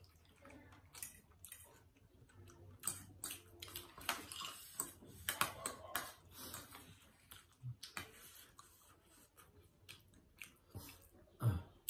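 Close-up chewing of spicy instant noodles, with irregular wet mouth clicks and smacks.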